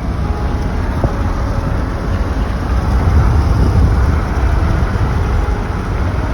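Steady low rumble of a motor vehicle running, heavy in the bass and without distinct events.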